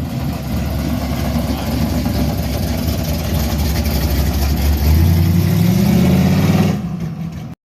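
Car engine running, its revs rising about five seconds in, then the sound fades and cuts off abruptly.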